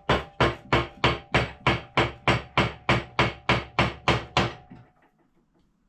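A wooden mallet beating on a wooden dowel held against the end of a Coronet No.1 lathe's shaft, about three blows a second, some fifteen in all, stopping about four and a half seconds in, with a faint ring under the blows. The shaft does not shift under the blows: it is stuck.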